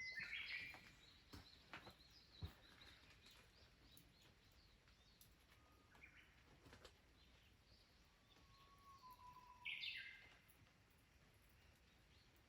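Faint wild birds calling: short chirps near the start, around the middle and near the end, with one low drawn-out whistle just before the last chirps.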